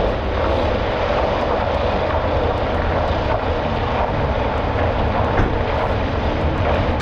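Heavy truck's diesel engine running hard in a steady drone with a deep rumble, as the truck is driven under load to reverse out of a failed turn.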